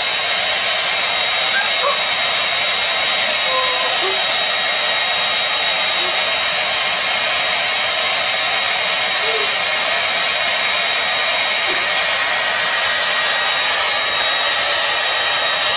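Hair dryer blowing steadily, an even rush of air with a thin high whine running over it.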